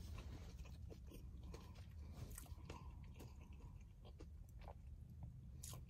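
Faint close-up chewing of a crunchy hard taco shell, with scattered soft crackles. A low steady hum lies underneath.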